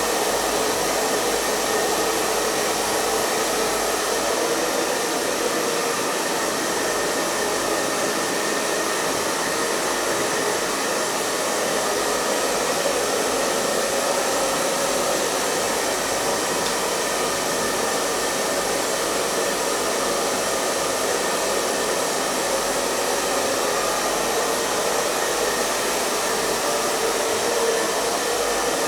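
Hair dryer blowing steadily, an even, unchanging rush of air and motor hum with a faint steady whine.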